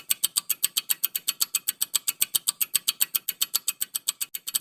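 Rapid ticking sound effect, like a fast clock, with about eight even, sharp ticks a second, counting down the thinking time for a quiz question.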